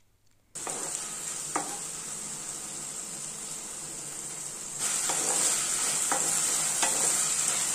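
Cauliflower pieces, onion and capsicum sizzling in sauce in a nonstick kadai as they are stirred with a wooden spatula, with a few light taps of the spatula against the pan. The sizzle starts suddenly about half a second in and steps louder about five seconds in.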